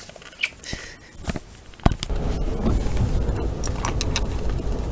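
A few sharp clicks and knocks, then from about two seconds in a steady low rumble of a car heard from inside the cabin, with a few small knocks over it.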